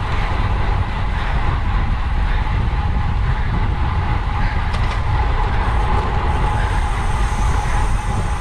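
Wind rushing over a bike-mounted camera's microphone while riding at racing speed: a steady, loud rumbling rush with a faint constant tone underneath.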